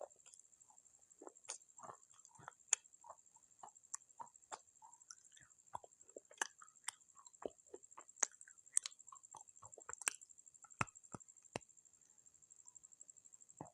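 Close-up crunching of pieces of baked clay pot being bitten and chewed: irregular sharp crisp cracks, several a second, over a faint steady high-pitched hiss.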